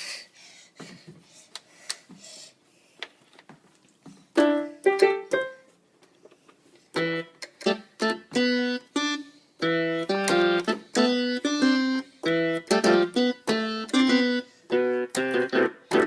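A few scattered clicks, then from about four seconds in a keyboard instrument playing a quick, uneven run of short, separate notes.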